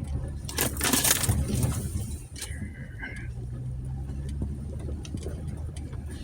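Brush and branches scraping along the body of a 2020 Jeep Gladiator over the low drone of its idling-speed engine. This is trail pinstriping of the paint. The scraping is loudest in a burst around the first second, and a short high squeal follows about two and a half seconds in.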